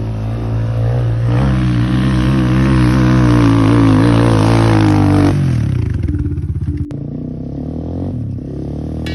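Enduro dirt bike engine running hard on the throttle. Its revs drop off about five seconds in and it runs on lower, with one sharp click a little later.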